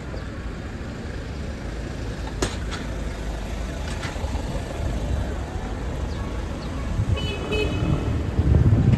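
Outdoor traffic rumble with a couple of sharp clicks, and a short horn-like toot about seven seconds in. The rumble grows louder near the end.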